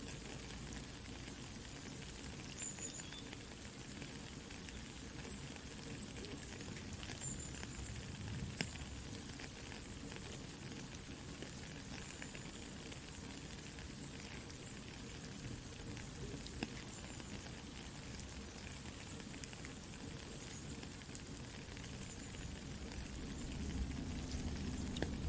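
Soft steady rain hiss with a campfire crackling over it: scattered small pops and snaps, a couple of sharper pops partway through, and a low rumble that grows louder near the end.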